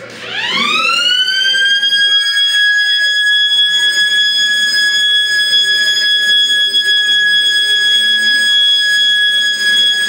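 A loud siren-like alarm tone glides up in pitch over about a second and a half, then holds steady at one high pitch.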